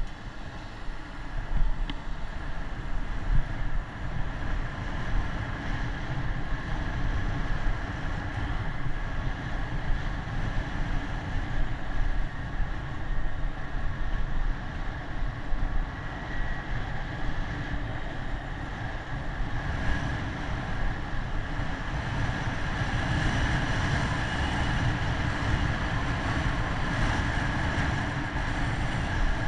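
Wind buffeting the microphone during a bicycle ride: a steady rushing rumble with road noise underneath, growing a little stronger in the last third.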